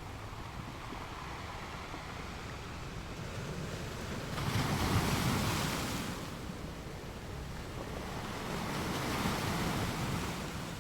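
Sea waves washing onto the shore. A louder wave surges and breaks about four seconds in, and a softer one follows near the end.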